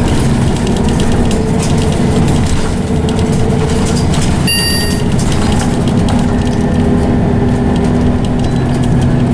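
Scania OmniCity single-deck bus heard on board, its engine and ZF automatic gearbox running under way with a steady whine, amid interior rattles and clicks. A brief high chime sounds about halfway through.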